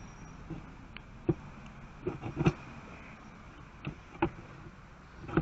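Scattered small clicks and knocks of metal parts being handled, a bolt and bracket being fitted to a small circular trim saw, with the loudest knock about halfway through.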